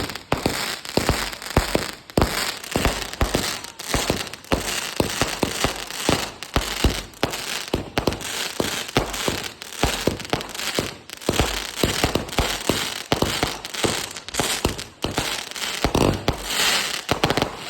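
Fireworks going off: a dense, continuous barrage of sharp bangs and crackles, several a second.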